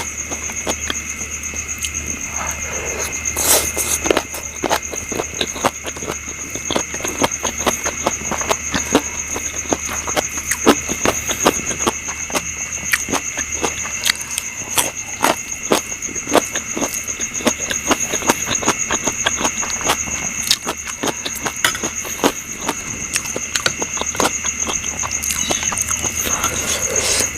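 Close-up eating sounds: a person chewing with many quick, irregular smacks and crunchy clicks. Under it runs a steady, high, shrill drone of night insects.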